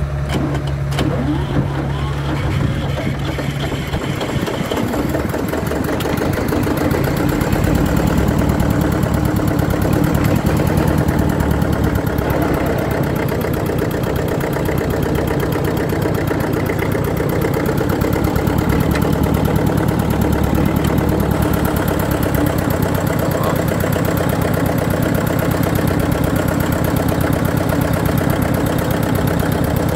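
Eicher tractor's air-cooled diesel engine running with a rapid, even beat of firing pulses from the exhaust. It picks up somewhat in the first several seconds, then runs steadily.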